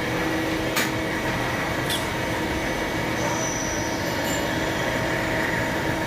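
CNC machine running steadily while machining a stainless-steel nut, with two short sharp ticks about a second apart near the start.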